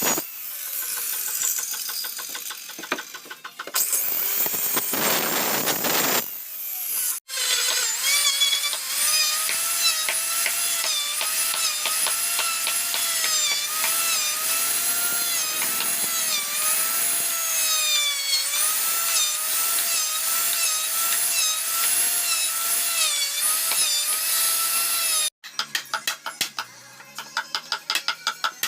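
Electric power tool cutting wood: a steady motor whine whose pitch sags and recovers again and again as the cut loads it, preceded by rough rasping. Near the end it gives way to a quick run of regular strokes.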